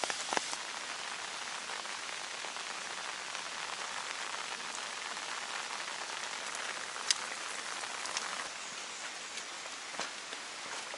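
Steady rain falling: an even hiss with a few sharper drips, one standing out about seven seconds in.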